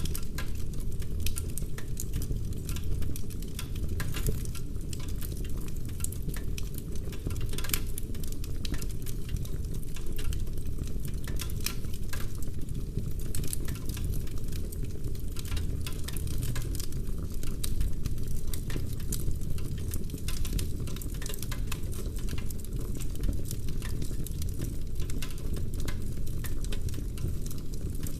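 Wood fire in a fireplace: burning logs crackling and popping in dense, irregular snaps over a steady low rumble.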